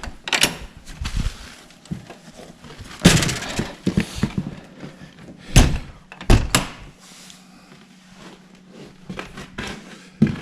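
A series of sharp knocks and thumps, the loudest about three, five and a half and six seconds in, with lighter clicks and rustling between.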